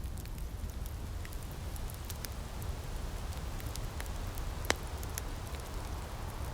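Wood fire crackling, with scattered sharp snaps and one louder pop about two-thirds of the way through, over a steady low rumble.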